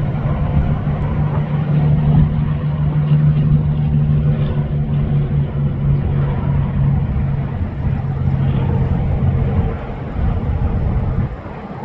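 A motor vehicle's engine running with a steady low drone over road noise, dropping off near the end.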